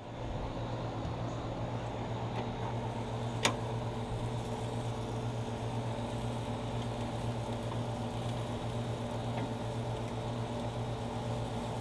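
Steady low mechanical hum with a few constant tones, with one sharp click about three and a half seconds in.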